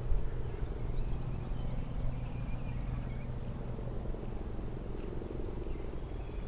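Faint birdsong, a few short chirps about two seconds in and again near the end, over a louder steady low rumble.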